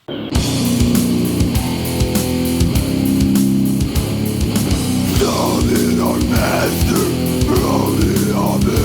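Death metal from a cassette: distorted electric guitars, bass and drums start abruptly right after a moment of near silence at the start of a song, with rapid regular drum hits. From about halfway, higher notes bending in pitch play over the low riff.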